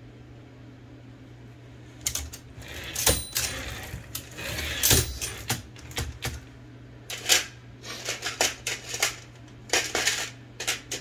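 Metal clicking and rattling of an Olivetti Linea 98 typewriter's parts being handled and worked. After about two quiet seconds comes an uneven run of sharp clicks and clatter, one with a brief metallic ring about three seconds in.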